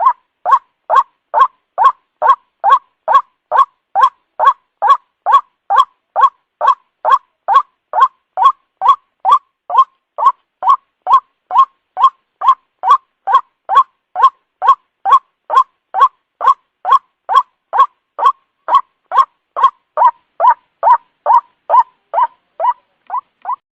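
White-breasted waterhen (ruak-ruak) call used as a bird lure: short, loud notes repeated steadily about twice a second, growing a little softer near the end.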